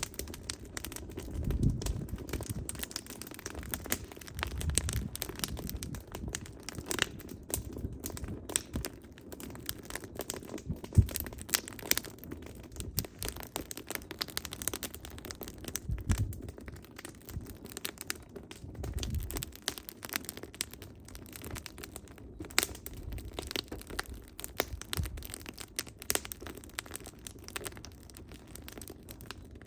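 Firewood burning in an open fire, crackling with many small pops and an occasional louder snap over a low rumble of flame.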